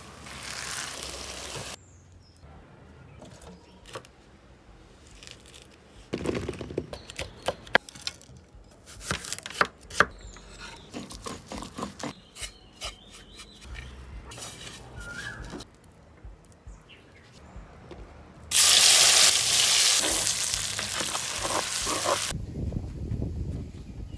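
Okra frying in a clay pot, sizzling as it is stirred. A run of sharp knocks and clicks follows as a stone grinder is worked. Near the end comes a stretch of loud sizzling.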